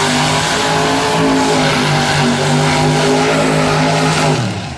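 Loud monster truck engine held at high, steady revs, its pitch falling as the throttle comes off near the end.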